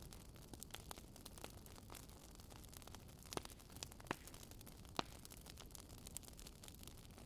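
Wood campfire crackling softly, with scattered small snaps and a few louder pops, over a faint steady hiss.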